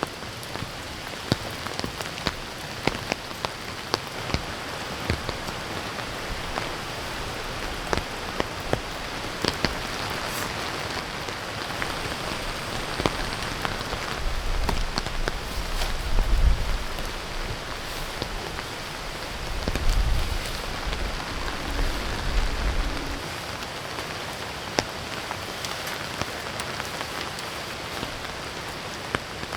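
Heavy rain falling steadily, with many sharp drop taps. Low gusty rumbles come in twice around the middle, wind buffeting the microphone.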